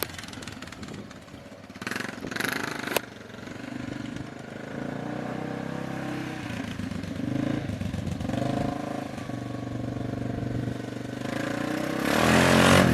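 A vehicle engine running, with a burst of noise and a sharp click about two to three seconds in; the engine gets louder near the end as it is revved.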